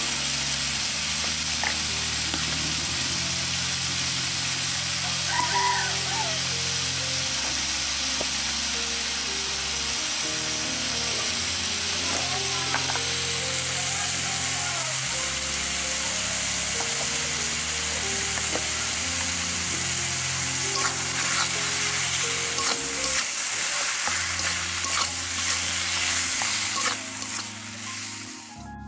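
Diced potatoes frying and sizzling in oil in a steel kadai, stirred with a metal spatula that scrapes and clicks against the pan, more often in the later part. Soft background music with held low notes runs underneath.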